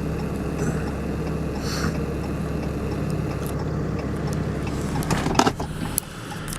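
Vehicle engine running steadily with a low hum, with a couple of short knocks about five seconds in.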